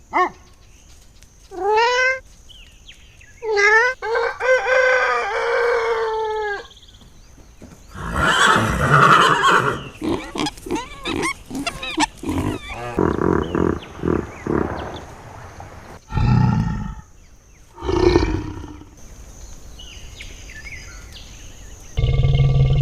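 A string of different animal calls one after another, with short pauses between: brief cries, a long wavering call early on, rougher noisy calls in the middle, and a steady held call starting near the end.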